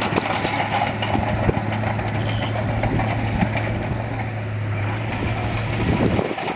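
Heavy diesel earthmoving machinery running steadily, with irregular clattering and clanking over it. The steady engine hum drops away near the end.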